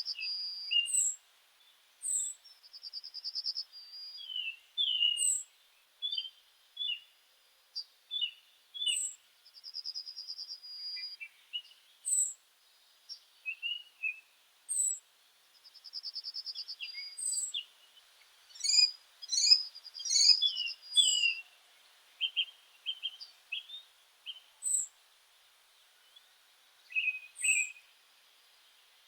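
Several songbirds singing and calling: short high chirps, with a buzzy trill repeated every few seconds and a busier stretch of overlapping calls about two-thirds of the way through.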